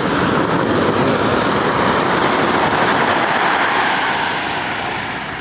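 Model jet's gas turbine flying past: a loud rushing roar with a high whine that climbs in pitch, then drops as the sound swells and fades near the end.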